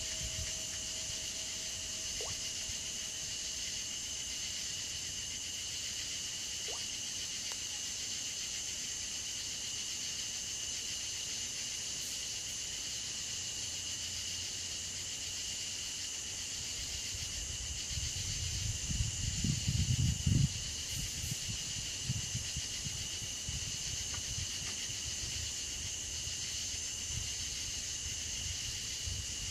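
Steady, high-pitched chorus of chirring insects going on unbroken, with a brief stretch of low rumbling on the microphone about two-thirds of the way through.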